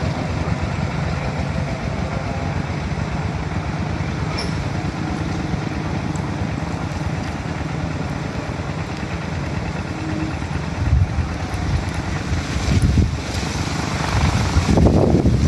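A steady low rumble of outdoor background noise, like a running engine or wind, with louder surges near the end.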